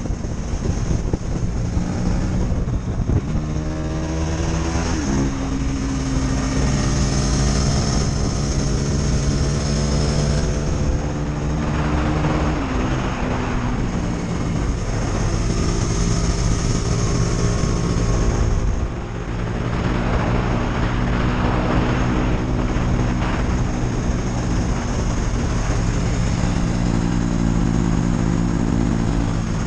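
KTM 250 Duke's single-cylinder engine pulling under way, its pitch climbing and dropping back at gear changes, then holding steadier for the last several seconds.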